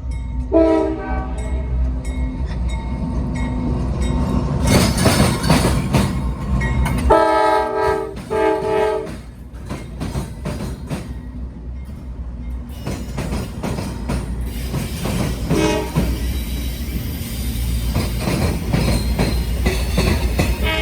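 Diesel freight locomotive passing with its rumbling engine and rail clatter. The multi-tone air horn sounds briefly near the start, then twice more loudly about a third of the way through, with a short toot later.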